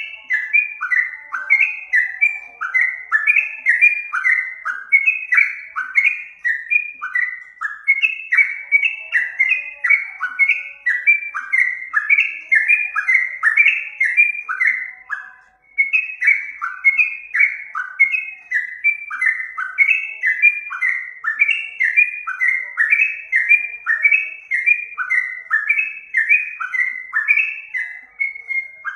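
A songbird singing a long, fast series of short whistled notes that each fall in pitch, about three a second, with a brief pause about halfway through.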